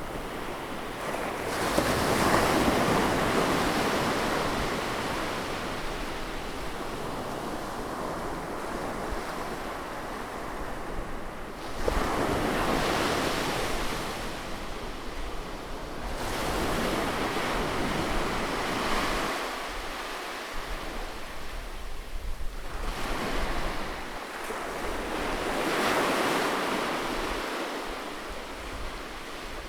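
Sea waves breaking and washing in: four surges of surf, each rising quickly and then slowly fading back into a steady rush of water.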